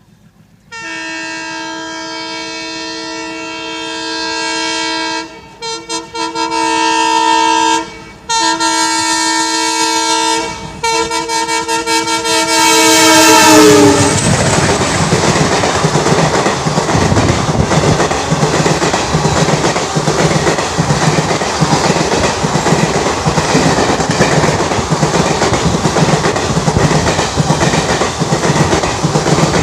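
Indian Railways locomotive horn sounded in long blasts with short breaks for about thirteen seconds as a train approaches at speed, its pitch dropping as the locomotive passes. Then the coaches run by with a loud rumble and the rhythmic clickety-clack of wheels over the track.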